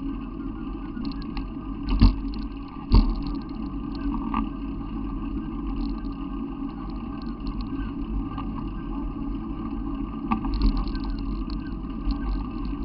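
Steady low rumble of a running vehicle, with two sharp knocks about two and three seconds in.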